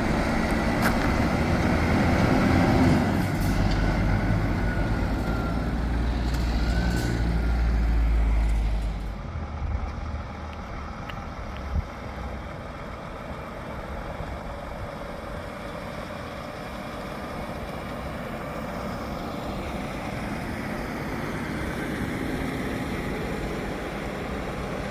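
A heavy truck's diesel engine running loud as it drives past, dying away after about nine seconds into quieter steady road background, with one short sharp sound about twelve seconds in.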